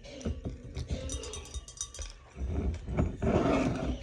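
Close-mic eating: a person chewing fried food, with many small mouth clicks and a louder, rough crunching stretch about two and a half seconds in.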